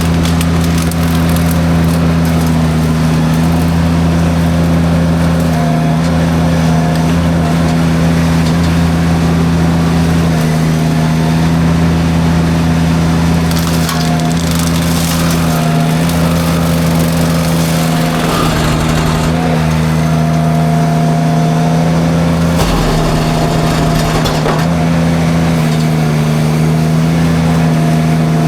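Mini skid steer engine running steadily under load with its forestry drum mulcher spinning, and several stretches of noisy crunching as brush and wood are shredded, about halfway through and again later.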